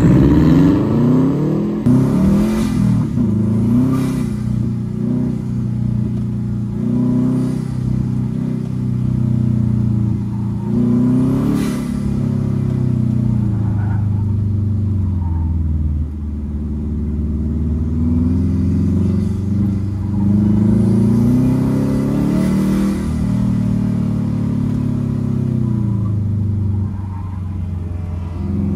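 Factory Five 818's Subaru flat-four engine launching hard from the start, then revving up and dropping back over and over as the car is driven flat out through an autocross course. Heard from inside the car.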